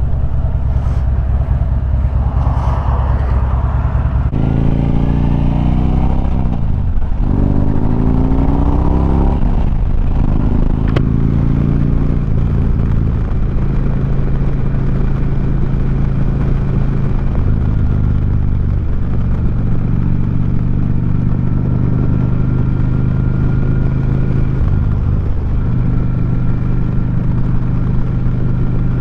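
2009 Harley-Davidson Street Glide V-twin engine through 4.5-inch SharkRoad slip-on mufflers, pulling away under load with the revs climbing twice, about four and about seven seconds in, then settling into a steady cruise. Wind noise over the rider runs underneath.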